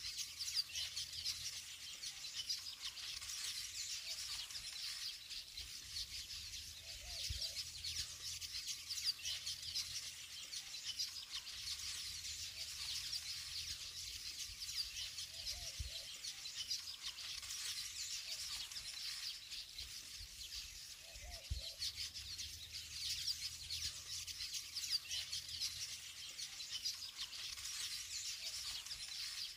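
Many small birds chirping and twittering without a break, a dense high chatter.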